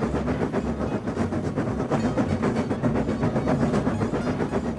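Train running along the track: a steady low rumble with a dense, rapid clatter of wheels on rails.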